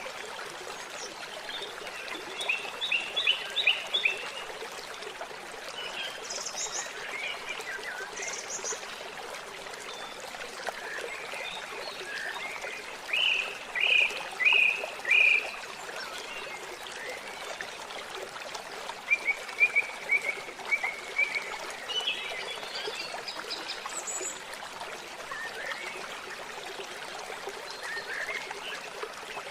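Water trickling and flowing steadily, with several bursts of short, high, rapidly repeated chirping calls from small animals, the loudest about halfway through.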